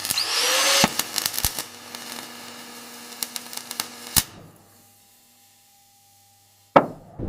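Mechanical grinding and clattering: a loud rush of noise, then a run of sharp clicks and knocks that stops about four seconds in, and a single sharp knock near the end.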